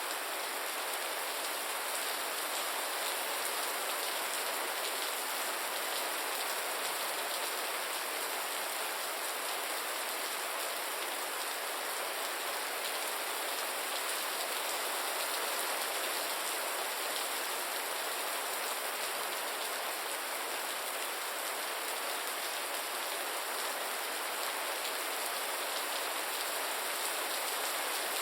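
Steady, gentle rain falling: a dense, even patter of drops with no lulls.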